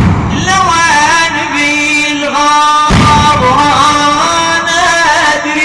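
A male voice singing a drawn-out, wavering melismatic line of an Iraqi religious elegy, with a deep thud at the start and another about three seconds in.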